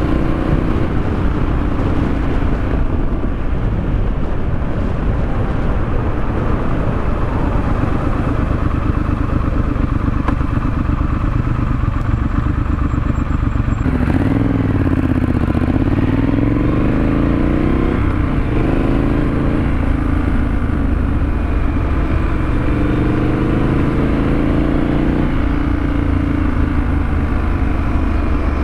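Triumph Scrambler 900's parallel-twin engine running under way through a Vance & Hines exhaust. About halfway through, the engine note falls and rises again a few times as the revs change.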